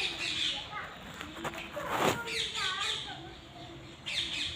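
Birds calling, with short chirping calls and one harsh squawk about two seconds in.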